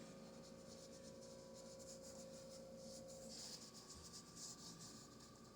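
Faint scratchy rubbing of a paintbrush working acrylic paint, mixing white into brown, strongest a little past halfway. A faint steady hum sits underneath.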